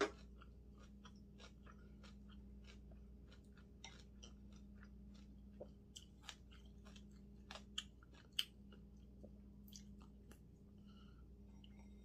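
A person chewing a mouthful of seasoned greens and pumpkin porridge close to the microphone: a run of small mouth clicks and smacks, with a few louder ones about eight seconds in.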